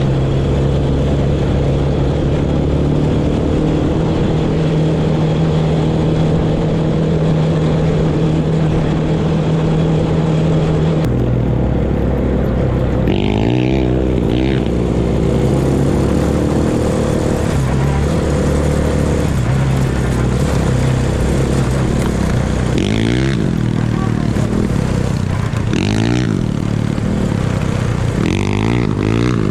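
Off-road vehicle engine running steadily while riding. Its note shifts about 11 seconds in, and its pitch sweeps briefly several times in the second half.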